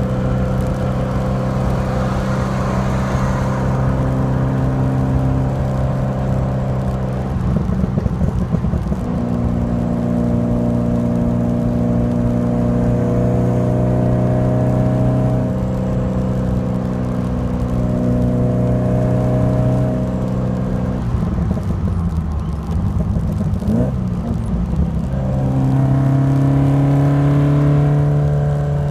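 Alfa Romeo Alfasud Sprint QV's 1.5-litre flat-four boxer engine running through a stainless steel exhaust, its note held steady for long stretches. It changes pitch about seven seconds in, goes unsteady for a few seconds past the middle, then settles at a higher note near the end.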